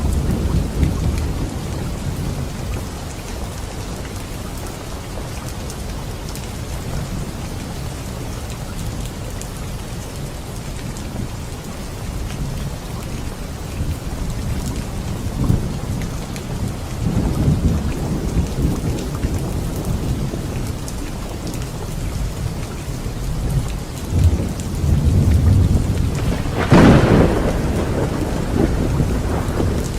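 Steady rain with thunder rumbling at times, low swells in the middle and again later, and one sharper, louder thunderclap near the end.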